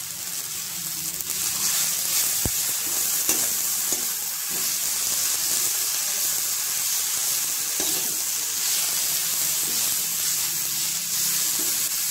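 Chopped Malabar spinach sizzling in hot oil in a metal wok as it is stirred and tossed, a steady high hiss with a few light clicks of the stirring spoon against the pan.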